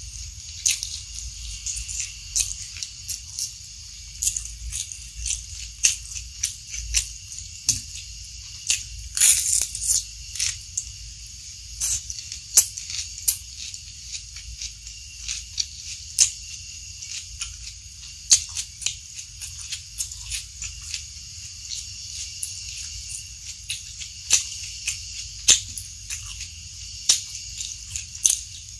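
Close-miked chewing, with irregular crisp clicks and crunches, over a steady high hiss.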